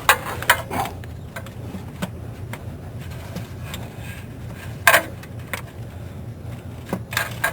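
Hand tools clinking and tapping against metal while a wrench works on the starter bolts: a few clinks in the first second, a sharp one about five seconds in, and several more near the end, over a low steady hum.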